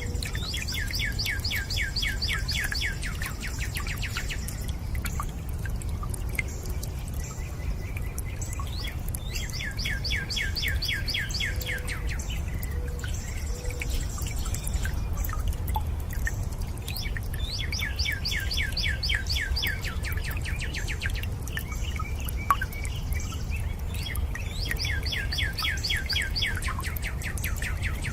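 A bird singing a fast trill of short falling notes, each trill lasting a few seconds and coming back about every eight seconds, over a steady low rush of water with scattered drips.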